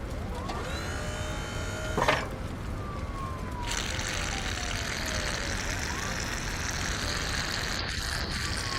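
Fire engine siren wailing, its pitch rising and then sliding slowly down, over and over. A short loud burst comes about two seconds in, and from about four seconds in a steady hiss of spraying water runs under the siren.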